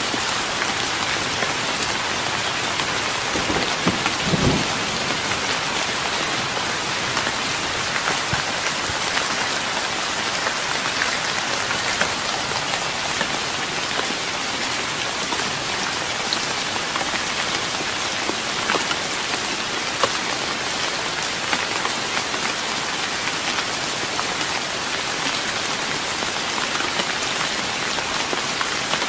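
Steady rain falling on a wooden deck, a dense patter of drops, with a brief low thud or rumble about four seconds in.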